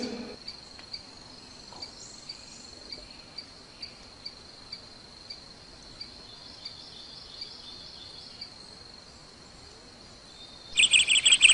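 Faint steady high-pitched trill with soft chirps about twice a second. Near the end, loud rapid bird chirping breaks in.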